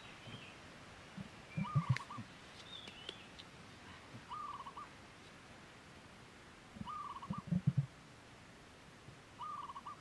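A bird repeats a short quavering call about every two and a half seconds, with fainter higher calls in between. Low dull thumps, the loudest sounds, come in clusters about two seconds in and again near eight seconds, as the ball is handled on the dirt.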